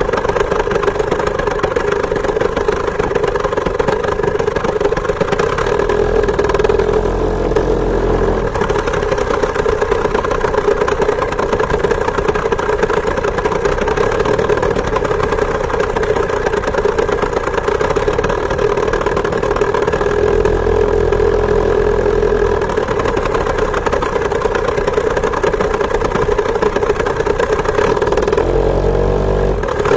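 Homemade moped's chainsaw two-stroke engine running steadily at an even pitch while under way. A few times a low rumble comes in for a second or two.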